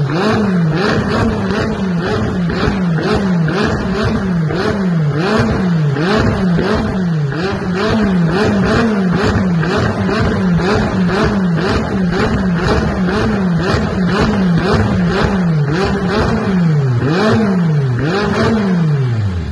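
McLaren 570S twin-turbo V8 being revved over and over in quick, regular throttle blips, about one and a half a second, the pitch climbing and dropping each time with a crackle from the exhaust.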